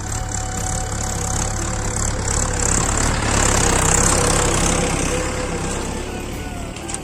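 Mahindra 415 DI SP Plus tractor's diesel engine running steadily, with a rising and falling swell of noise that is loudest about four seconds in.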